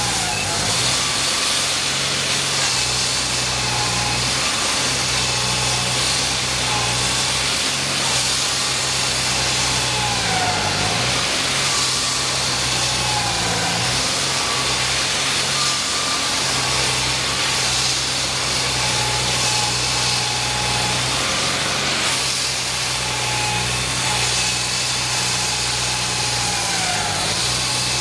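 An engine, likely construction machinery, running steadily. Its pitch dips briefly and recovers a few times, as if under changing load.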